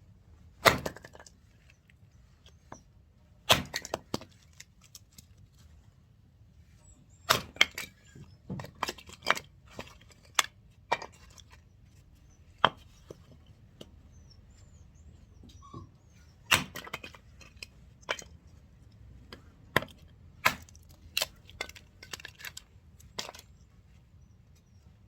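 Firewood being split by hand: a series of sharp chopping strikes and cracks of wood, irregularly spaced, some coming in quick clusters.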